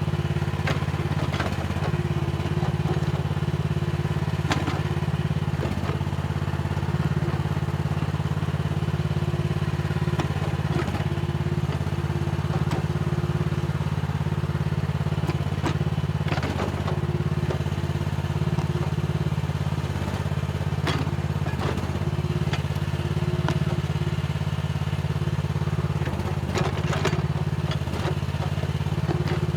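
Mini excavator's engine running steadily under work, with a tone above the engine drone that comes and goes, and scattered knocks and clatter as the machine digs and breaks up soil.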